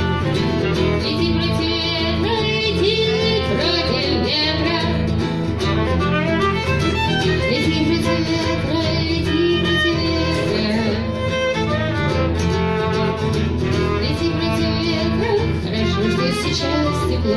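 Acoustic guitar and violin playing an instrumental passage. The violin carries a wavering bowed melody over steady strummed guitar.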